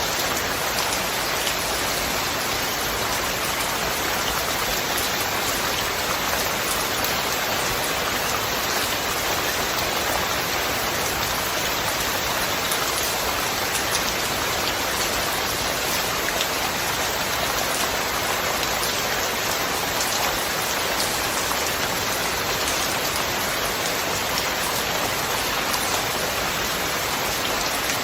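Steady heavy rain with dense drops pattering on a surface, unchanging throughout.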